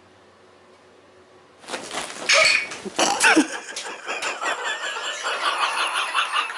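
Faint steady hum, then about two seconds in a pet starts calling: a run of short, wavering, high-pitched calls that keeps going.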